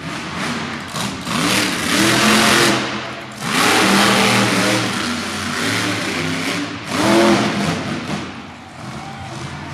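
Monster truck engine revving hard in repeated bursts, with the loudest surges about two, four and seven seconds in and easing back between them.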